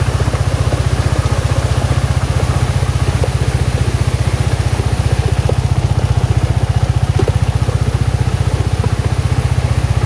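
Engine running steadily, a low throb with a fast, even pulse, like a small motorcycle engine.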